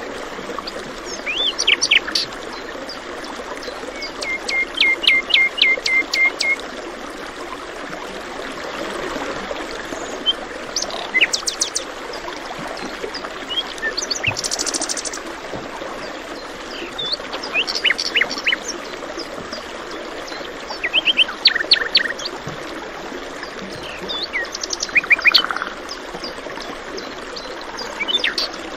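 Several birds chirping in short runs of quick repeated high notes over the steady rush of a running stream.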